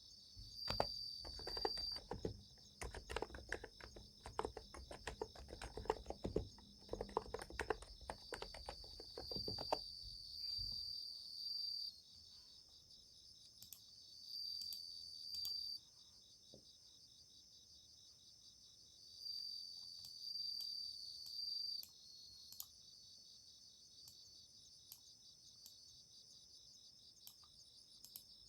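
Rapid typing on a Niz Plum x108 electro-capacitive keyboard, dense soft key clicks that stop about a third of the way through. Summer-night insects trill high and steady underneath, swelling into louder chirping stretches of about two seconds every few seconds.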